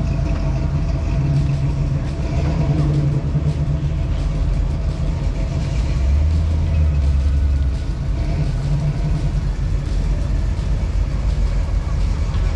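Car engine running with a steady low exhaust rumble, swelling a little about six seconds in.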